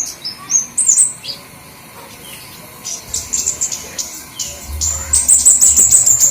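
Bird-lure recording of flowerpeckers calling: high, thin chips and twitters, a quick run of notes at first, then after a short lull a dense, rapid chattering that grows louder toward the end. A low hum comes in a little past halfway.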